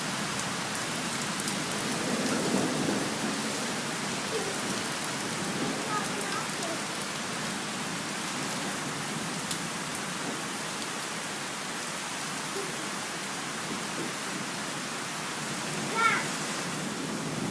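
Steady heavy rain falling and pattering on surfaces, with a low rumble of thunder swelling about two seconds in.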